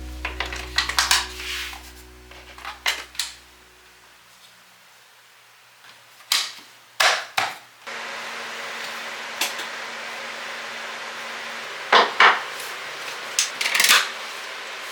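Metal parts of a kitchen range hood being handled and set down: scattered clanks and knocks, some in quick pairs. About eight seconds in, a steady hiss starts and carries on under the clanks.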